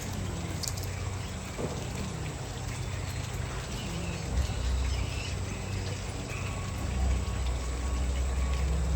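Water trickling and pouring steadily, with a low rumble underneath that grows stronger near the end.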